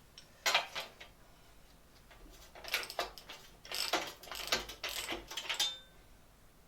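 Metal parts and hand tools clinking and rattling in bursts while steel brackets are handled and fitted to a band saw casting, ending about two-thirds of the way through with a short metallic ring.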